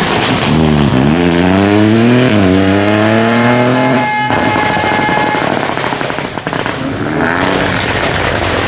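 Rally car passing under full throttle: the engine revs climb, drop at a gear change, climb again, then cut off abruptly about four seconds in as the driver lifts. A rougher, noisier sound follows, with a brief rev again near the end.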